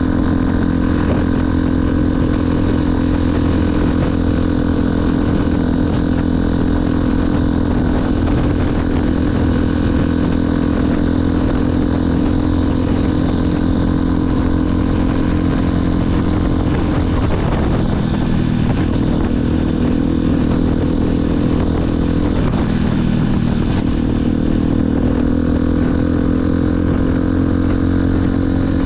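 Motorcycle engine running steadily while riding, with its pitch dipping and shifting briefly twice, about two-thirds of the way through.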